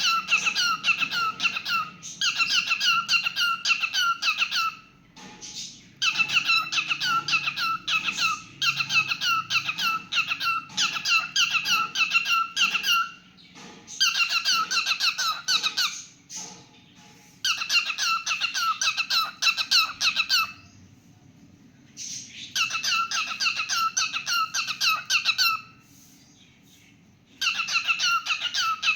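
Cockatiel chirping in fast runs of short, repeated high notes. Each run lasts a couple of seconds and is broken by brief pauses, about nine runs in all.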